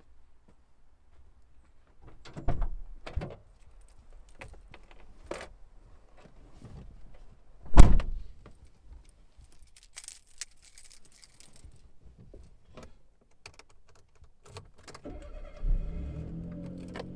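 Keys jangling and small knocks in a car, with one loud thump about eight seconds in; near the end the Suzuki Jimny's engine cranks, catches and settles into a steady idle.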